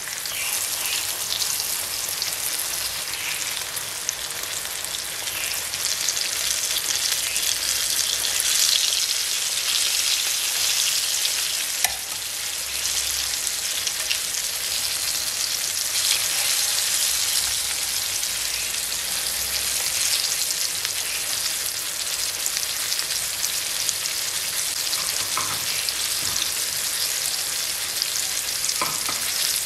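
Breaded zucchini halves shallow-frying in vegetable oil in a pan: a steady sizzle throughout, with a few light clicks as metal tongs turn the pieces.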